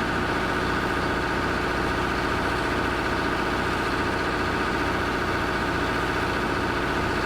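Heavy truck engine running at a steady, unchanging pitch.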